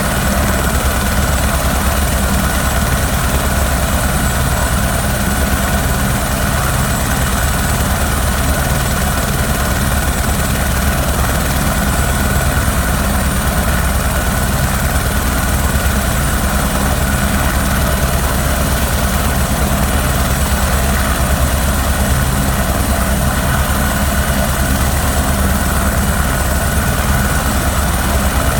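Helicopter running steadily, a loud constant drone of rotor and engine that does not change.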